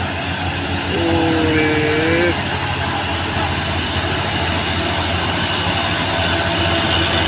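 Heavy diesel truck engine running steadily under load on a steep uphill climb, with a two-tone horn sounding for just over a second about a second in.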